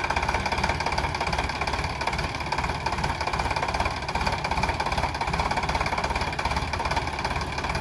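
Sonalika DI 745 tractor's diesel engine running steadily, with background music over it.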